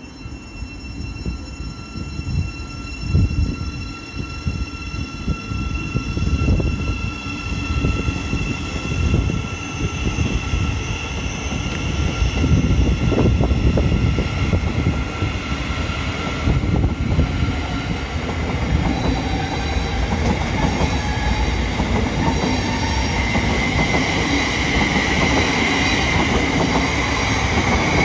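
Thameslink Class 700 electric multiple unit running past along the platform. The wheels rumble and clatter on the rails under several steady high whining tones, and the sound grows louder as the train draws close. A stronger whine swells near the end.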